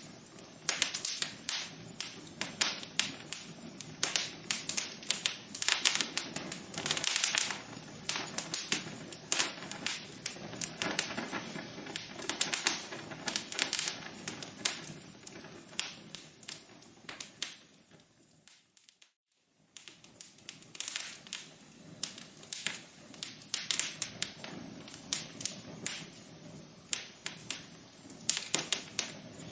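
Wood fire crackling in a fireplace: dense, irregular pops and snaps over a low hiss. About two-thirds of the way through, it drops almost to silence for about a second, then resumes.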